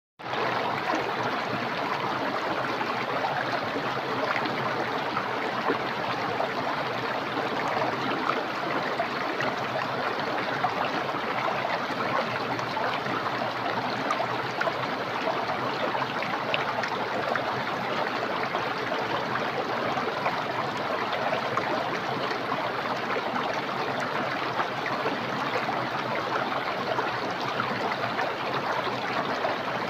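Small, clear, fast-flowing stream: a steady, even rush of water.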